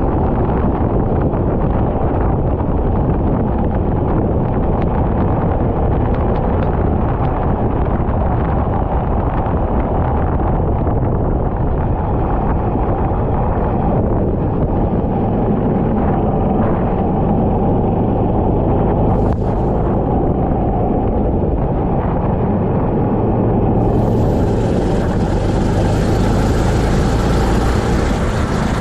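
Kart engine running at racing speed, heard from an onboard microphone with heavy wind buffeting. About 24 seconds in, a steady high hiss joins.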